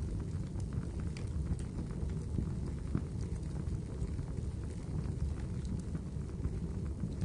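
Wood fire burning in a fireplace: scattered crackles and pops over a steady low rumble.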